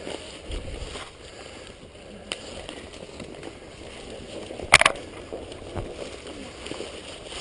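Several people walking through brush and fallen branches, with a steady rustling and crunching. There is one sharp crack about five seconds in.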